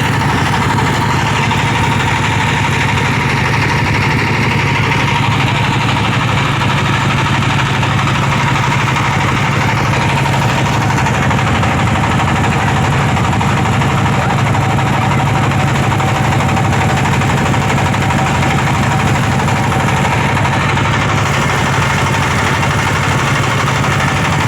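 Motorboat engine running steadily with a constant low hum.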